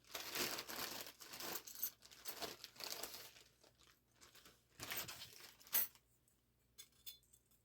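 Crinkling, rustling handling noise as the heater's muffler and hose clamps are picked up and unwrapped. It stops about six seconds in, and a few light clicks follow.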